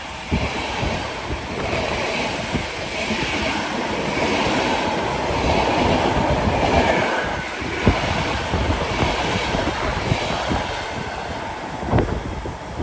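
Train passing on the track: a steady rumble of wheels on rails, with a couple of sharp clicks from wheels crossing rail joints about 8 and 12 seconds in.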